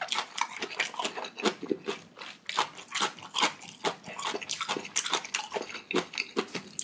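Close-miked chewing of crunchy chonggak (ponytail radish) kimchi: a rapid, irregular run of crisp crunches a few times a second.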